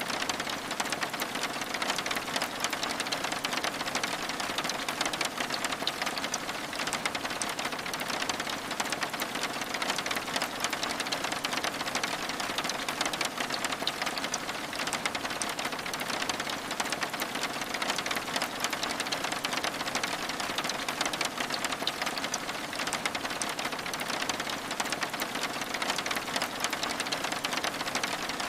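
Steady rain pattering on a window: a dense, even stream of tiny drop ticks that holds level throughout.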